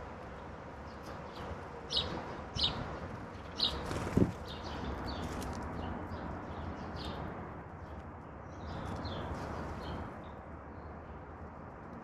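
Wild songbirds calling with short, repeated chirps, three louder ones in quick succession near the start. A single low thump comes about four seconds in, over a steady outdoor hiss.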